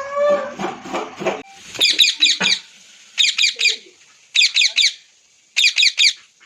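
Pet parrot calling in quick bursts of three or four sharp, high chirps, a burst about every second, after a few lower rising sounds at the start.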